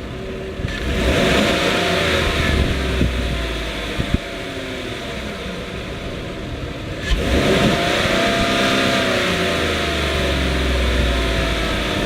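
2017 GMC Sierra 1500 pickup engine revved twice from idle: the revs rise quickly and fall back about two seconds later, it idles, then a second rev about seven seconds in eases down slowly. A single click sounds about four seconds in.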